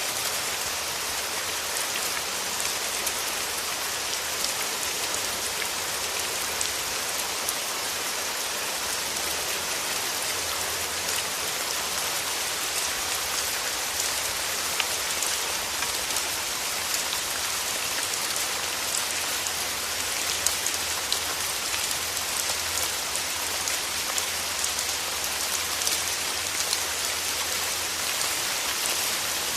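Steady rain falling through forest trees: an even hiss with many separate drops ticking through it.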